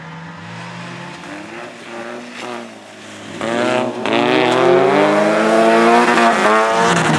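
Race car engine, first running quieter with the pitch dropping, then growing loud about three and a half seconds in and accelerating hard. The pitch climbs with a gear change near four seconds, then keeps rising almost to the end.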